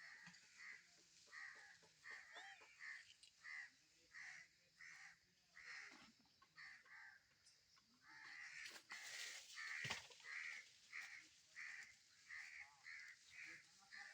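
Faint, harsh caw-like animal calls repeated about twice a second, thickening briefly about nine seconds in.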